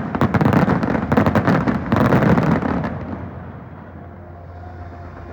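Fireworks going off in rapid succession, a dense volley of bangs and crackles that dies away about two and a half seconds in, leaving a low rumbling haze.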